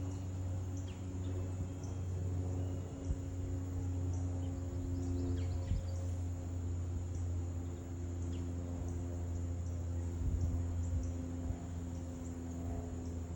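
Outdoor ambience: a steady low mechanical hum under a continuous high insect trill. A few faint, short bird notes slur downward about five seconds in.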